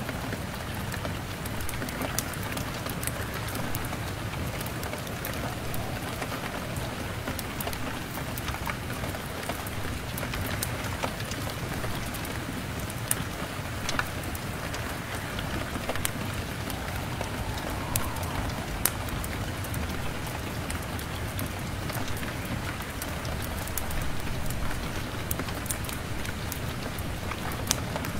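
Steady rain pattering against a window pane, with a low rumble beneath and scattered sharp crackles and pops of a wood fire.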